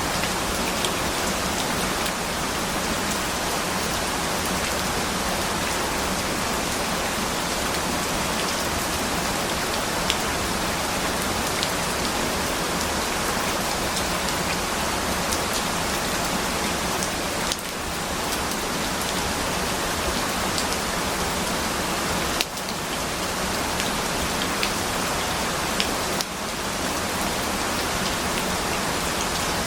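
Steady rain falling on a surface, an even hiss with scattered drop ticks; the level briefly dips three times in the second half.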